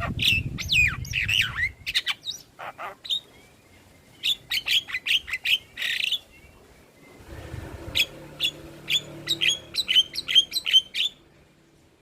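Javan myna (jalak kebo) calling: harsh, sweeping squawks and whistles at first, then quick runs of short, sharp chattering notes that stop about a second before the end.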